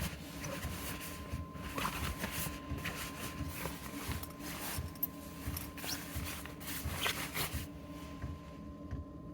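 Hands kneading and handling bread dough: irregular squishing and rustling strokes over a faint steady hum.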